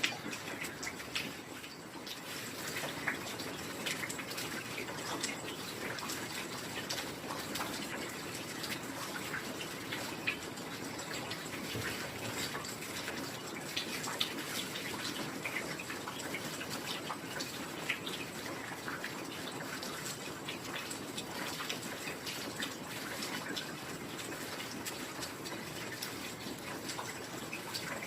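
Heavy rain falling steadily, with many individual drops heard as short sharp taps over a continuous hiss.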